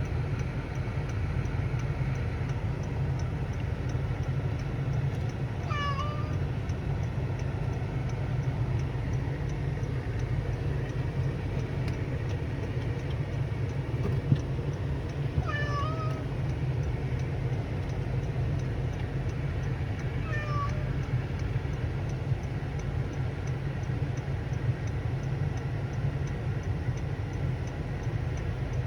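A cat meowing three times, short calls spaced several seconds apart, over a steady low hum.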